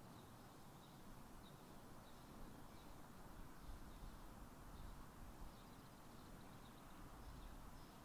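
Near silence: faint outdoor ambience with short, high, distant bird chirps every second or so over a low rumble.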